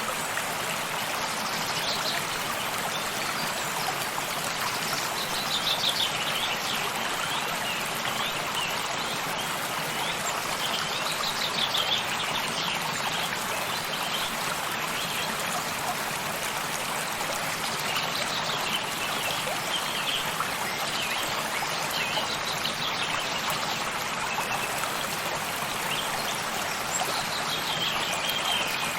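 Steady rushing and trickling of a stream, with short bursts of bird chirps several times over it.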